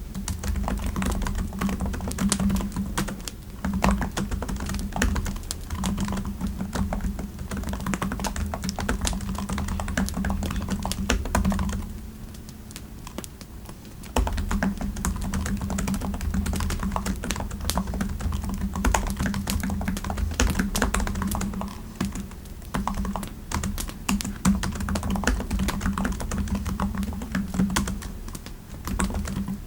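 Typing on a computer keyboard: fast, continuous keystrokes, stopping for about two seconds near the middle, then resuming.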